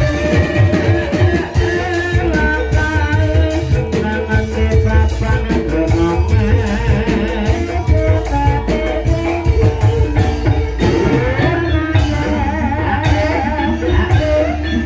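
Live Banyumasan ebeg dance music: a gamelan ensemble playing a gending with steady drumming, and a voice singing a wavering melody over it.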